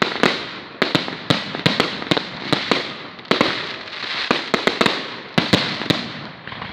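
Fireworks display: a rapid, irregular string of sharp bangs and cracks, a dozen or more, over a steady crackling hiss.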